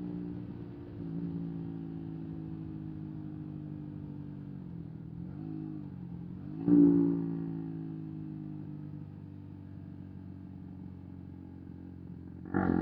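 125 cc single-cylinder motorcycle engine running under way. About five seconds in its pitch dips and climbs back, then it surges louder near the seventh second and slowly falls in pitch; another short loud surge comes near the end.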